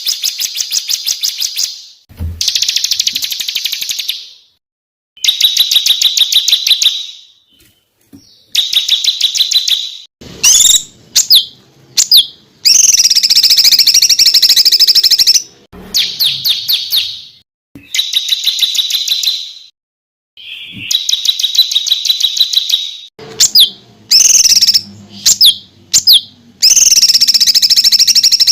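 Songbird song of rapid-fire trills ('tembakan'): loud bursts of fast repeated high notes, each one to three seconds long with short breaks between, mixed with quick sharp single notes. It is an edited tutor recording ('masteran') of the kind played to train competition songbirds.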